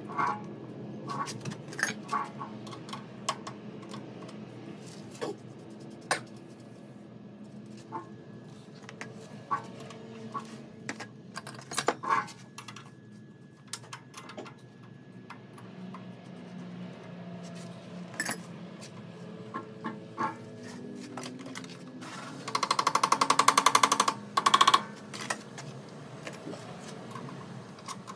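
Scattered sharp clicks and knocks, then a rapid mechanical rattle for about two seconds near the end, followed by a short repeat.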